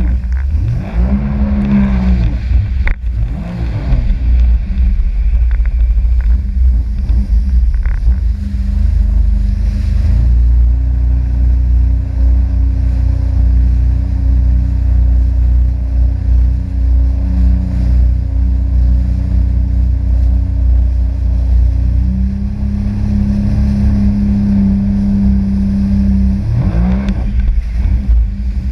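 Sea-Doo RXP-X 260 jet ski's supercharged three-cylinder engine running under way. It revs up and down several times in the first few seconds and again near the end, and holds a steady pitch in between, over a heavy low rumble of wind and water.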